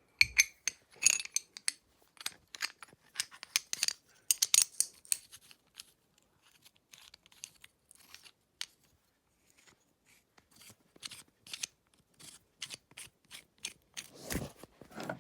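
Metal tools and engine-mount bolts clicking and clinking in an irregular run of sharp clicks, dense at first, sparse in the middle and busier again near the end, as a dirt bike's engine mount is unbolted.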